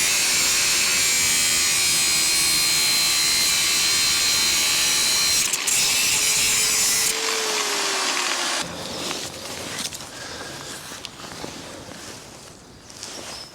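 Handheld power tool cutting, its motor running steadily with a loud hiss of cutting. About seven seconds in it is switched off and the motor pitch falls as it winds down, followed by light knocks and clatter of handling.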